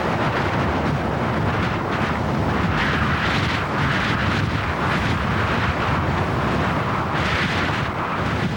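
Strong gale wind blowing across the microphone: a steady rushing noise that swells with gusts about a third of the way in and again near the end.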